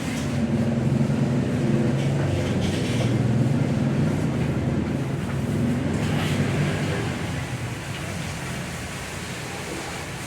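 Low, steady engine hum that swells about half a second in and fades after about seven seconds.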